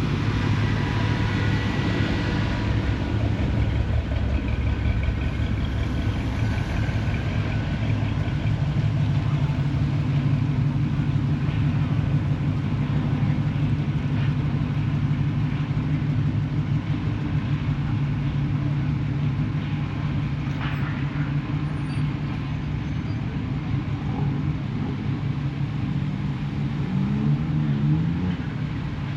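A motor vehicle engine running steadily at a low idle, with its pitch wavering briefly near the end.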